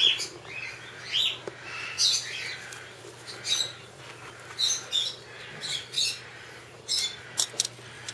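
Hawk-headed parrot giving a string of short, high chirping calls, about one every second.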